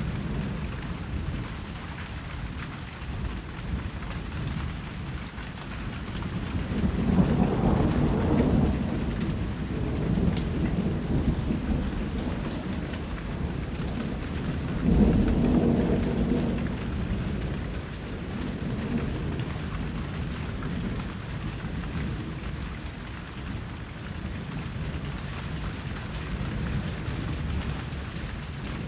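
Steady rainfall with rolls of thunder, one rumbling about a quarter of the way in and a louder one about halfway through.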